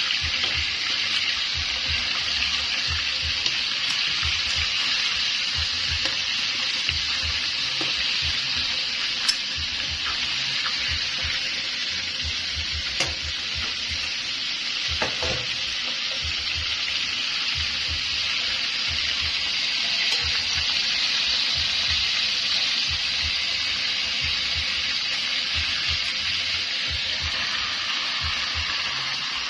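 Ribs sizzling steadily as they fry in oil in a stainless steel wok, with a few sharp clicks of the metal tongs against the wok as they are turned.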